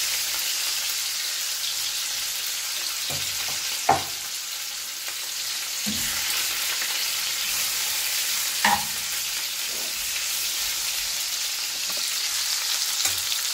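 Marinated chicken pieces sizzling as they shallow-fry in hot oil in a frying pan, a steady hiss throughout. A steel spoon turning the pieces clicks and scrapes against the pan a few times, loudest about four and nine seconds in.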